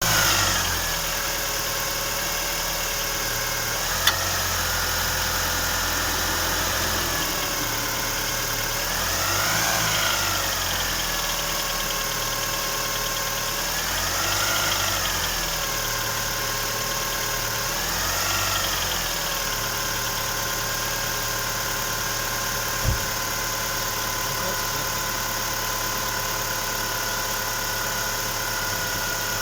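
Great Wall Hover H5's 2.4-litre petrol engine idling with the tapping of its hydraulic lifters, the fault the recording sets out to show. The revs rise and fall briefly three times, about a third of the way in, halfway and near two-thirds, and there are two sharp single clicks, one about four seconds in and one later on.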